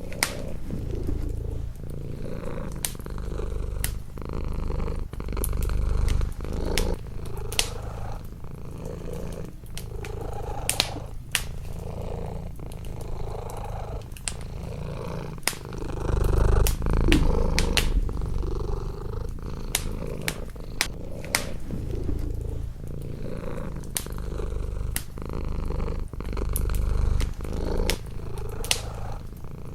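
Cat purring, swelling and fading with each breath, over a wood fire crackling with frequent irregular sharp pops.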